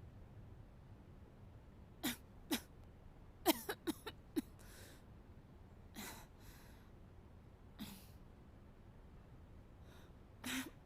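A person's short, sharp breaths: about ten quick bursts in irregular clusters, the densest between two and four and a half seconds in.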